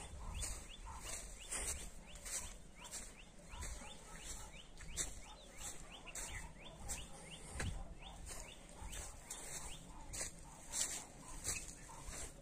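Birds chirping over and over in short, quick downward-sliding notes.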